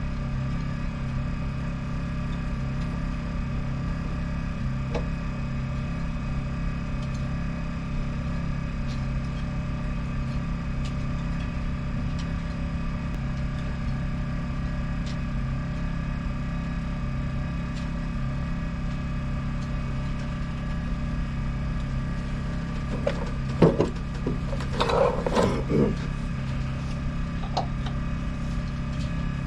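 The Yanmar FX24EZ boat's inboard engine idling steadily after its oil change. About three-quarters of the way through, a short burst of knocks and rattles is heard over it.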